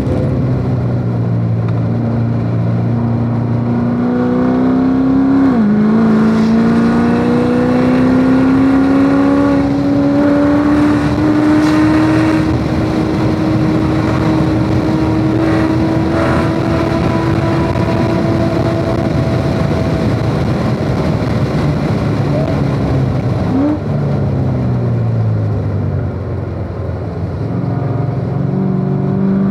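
Corvette Z06's supercharged V8 at full throttle, heard from inside the cabin: the engine note climbs, drops at an upshift about six seconds in, then climbs again for a long stretch. Near the end the driver lifts for braking, with a quick rev blip on a downshift, the pitch falls through a corner and then rises again as he accelerates out, over steady wind and road noise.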